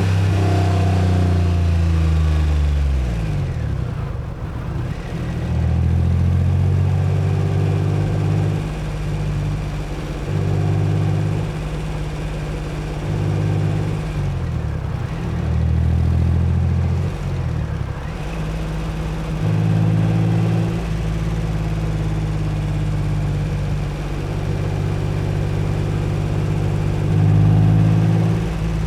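Acura NSX's V6 engine under way in traffic. Its note falls away in the first few seconds, then holds steady in stretches, dipping and rising in pitch several times with throttle and gear changes, over low road rumble.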